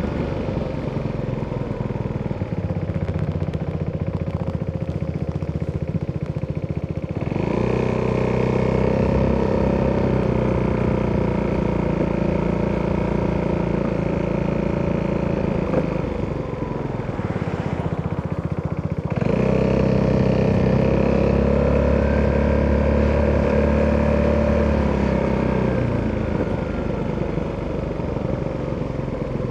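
Italjet Dragster 200's single-cylinder four-stroke engine through an Akrapovic exhaust, heard while riding. It runs low at first, then picks up about seven seconds in and holds a steady higher note, drops back for a few seconds, picks up again and holds, then eases off near the end.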